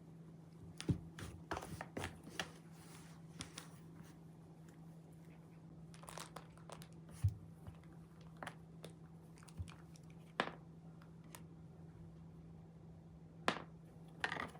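A cat batting at a toy with both paws: scattered soft taps, scuffs and crinkling, with a few sharper knocks spread through, over a faint steady low hum.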